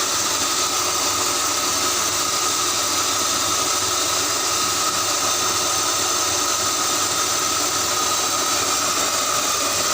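BMW engine idling steadily with its accessory belts still driving the alternator, AC compressor, power steering pump and water pump, and the viscous fan removed. A steady high whine sits over the running noise.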